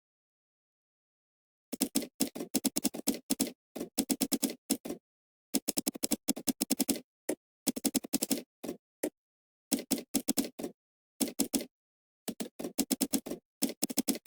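Computer keyboard typing in quick bursts of keystrokes, with dead silence between bursts.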